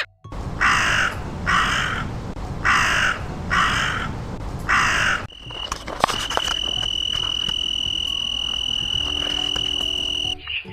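A crow cawing five times in harsh, evenly spaced calls. This is followed by a steady high-pitched tone held for about five seconds, with a few clicks near its start.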